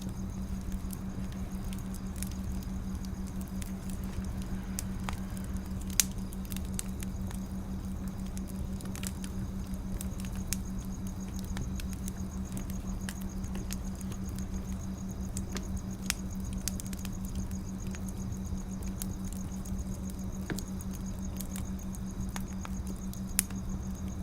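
Wood fire crackling steadily, with irregular sharp pops, the loudest about six seconds in and another near the end, over a steady low hum.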